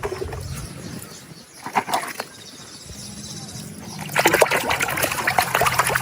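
Water splashing and sloshing as a muddy toy animal is washed by hand. There are a few short splashes about two seconds in, then steadier splashing from about four seconds.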